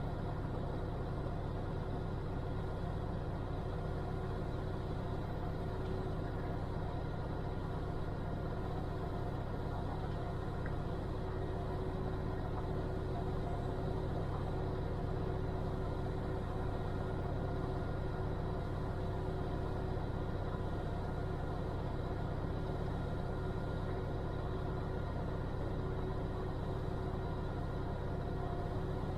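Cirrus single-engine airplane's piston engine and propeller running steadily: a constant drone with a low, even hum and no change in pitch.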